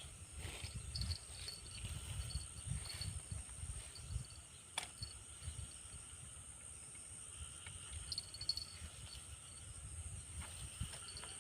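Insects, crickets among them, keeping up a steady high-pitched drone with short chirps coming and going, over an uneven low rumble. A single sharp click about five seconds in.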